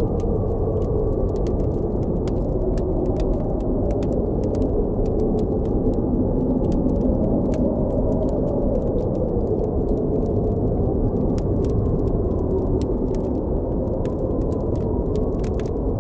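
Blizzard wind blowing steadily, a deep rushing with a faint howl that slowly shifts in pitch, over a campfire crackling and popping in frequent sharp ticks.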